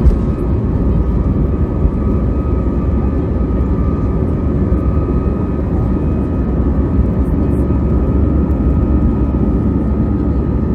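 Airbus A320 engines and airflow heard inside the passenger cabin: a steady, loud low rumble with a faint steady whine above it.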